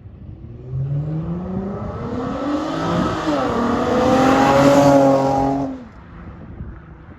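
Infiniti G35's VQ V6 running through test pipes (catalytic converters removed) and an Invidia Gemini exhaust, accelerating hard. The engine note climbs, dips at a gear change about three seconds in, climbs again louder, then drops away suddenly near six seconds as the throttle is lifted.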